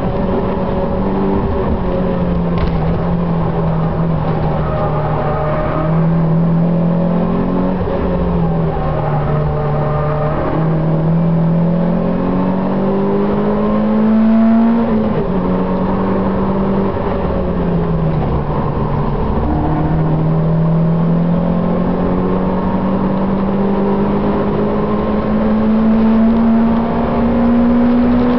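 Citroën Saxo 16-valve four-cylinder engine heard from inside the car at track speed. Its note climbs under acceleration and drops sharply several times, at gear changes or lifting off, then climbs slowly and steadily over the last third.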